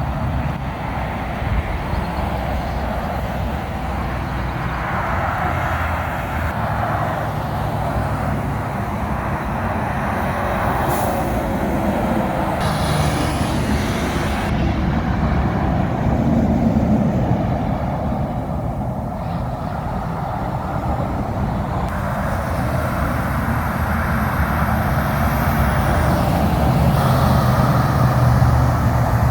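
Semi trucks and highway traffic passing on a wet road: a steady hiss of tyres on wet pavement over a low diesel engine drone, growing louder near the end as a truck comes close.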